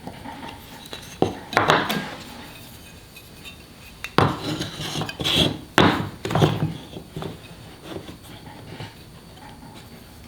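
Hard objects knocking and clattering on a workbench, about five sharp knocks, each with a short rattle after it, the loudest in the middle part.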